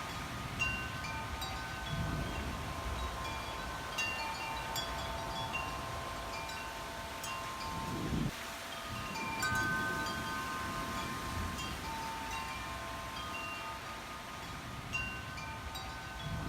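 Wind chimes ringing, many overlapping tones struck at random moments and ringing on, over a low rumble of wind on the microphone.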